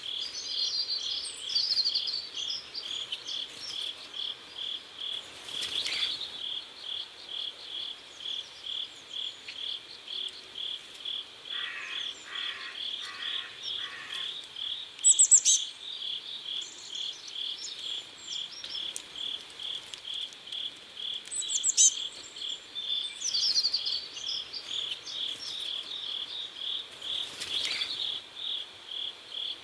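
Crickets chirping in a steady, even pulse about twice a second. Short high bird calls break in now and then, the loudest about halfway through and again a few seconds later.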